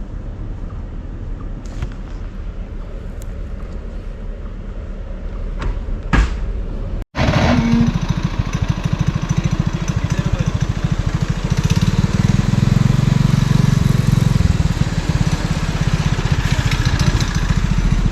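Small mini bike engine running steadily. The sound drops out briefly about seven seconds in and comes back louder.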